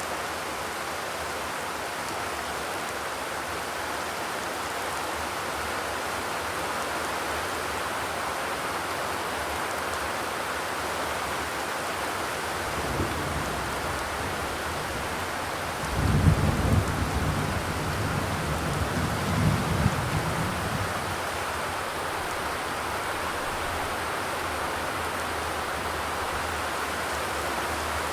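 Steady rain drumming on a zinc sheet-metal roof, an even hiss of drops. About halfway through, a low rumble swells for several seconds and fades back into the rain.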